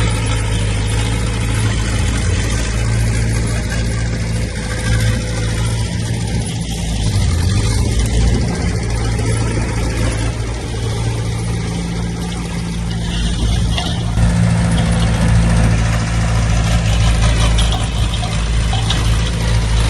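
Heavy diesel engine of earthmoving machinery running steadily, with a deep, even engine drone.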